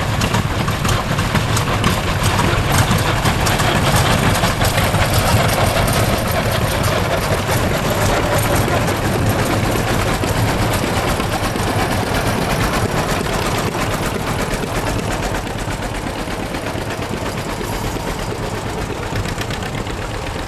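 Farm tractor engines running as a parade of tractors drives past: a steady, mixed engine drone that eases off slightly toward the end.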